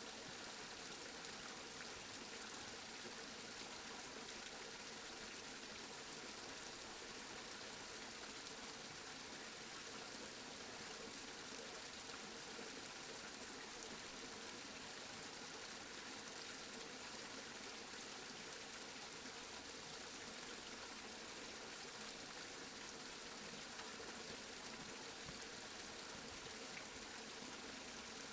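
Steady rainfall, an even hiss of rain that holds level without thunder or other events.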